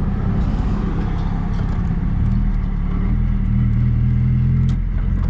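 An MG Midget's small four-cylinder engine running as the open-top car drives along, with road and wind noise. The engine note firms up about two seconds in and eases off near the end.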